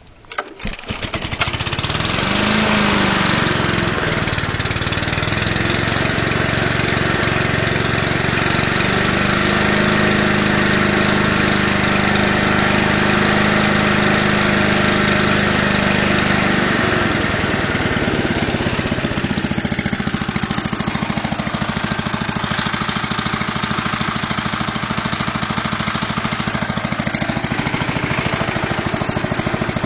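Honda GV150 single-cylinder four-stroke mower engine cold-started on choke: it catches on the first pull about a second in, runs up briefly, then runs steadily, its running note shifting about two-thirds of the way through.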